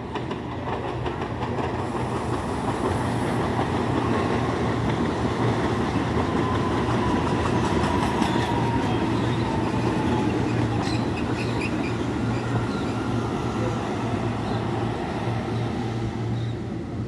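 A CPTM series 7000 electric commuter train passing close by, a steady rumble of wheels on rail that builds over the first couple of seconds. A faint whine falls slowly in pitch through the middle, and wheels click over rail joints about two-thirds of the way in.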